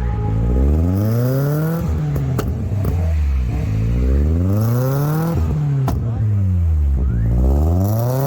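Car engine being revved up and down over and over, its pitch climbing and dropping about every two to three seconds, with a couple of sharp cracks in between.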